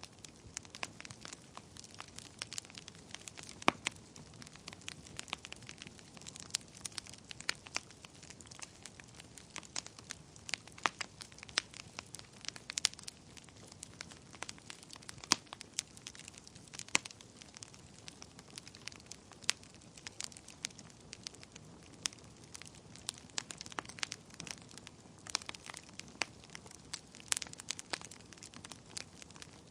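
Wood fire burning in a fireplace, crackling with frequent, irregular sharp pops over a soft steady hiss.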